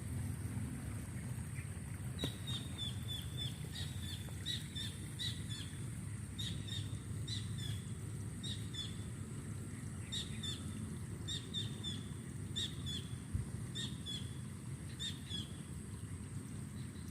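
A bird chirping in short, quick groups of high notes, repeated every second or so, over a steady low rumble.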